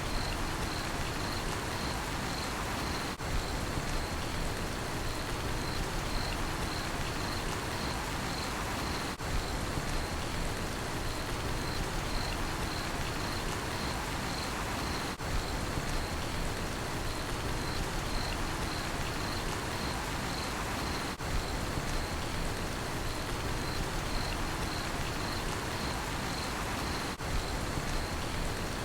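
Steady rain falling, with a cricket chirping in a continuous pulsing trill at a high pitch over it. There is a short break in the sound about every six seconds.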